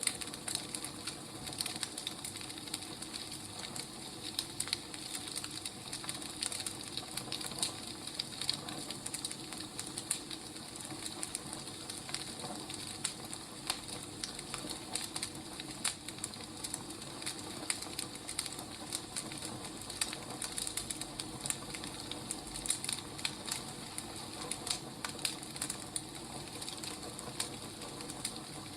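Firewood burning in a fire, crackling steadily with many small irregular pops and snaps over a soft hiss.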